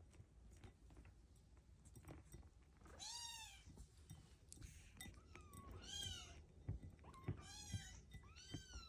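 Young kittens mewing: four short, high-pitched mews, each rising and falling, spaced a second or two apart from about three seconds in, faint against a quiet room.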